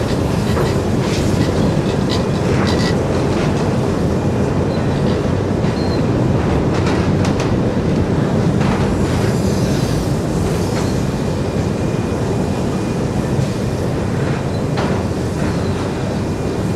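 Heritage passenger train running across a steel truss bridge: a steady heavy rumble of carriage wheels on the rails, with scattered clicks and clanks from the rail joints and the bridge steelwork.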